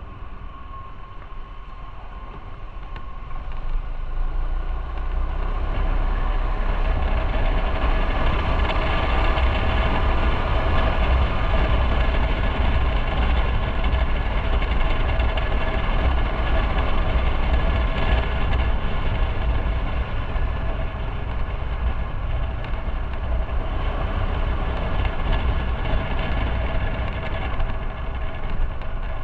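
Motorcycle engine running under way, with road and wind noise; it grows louder about four seconds in and then holds steady.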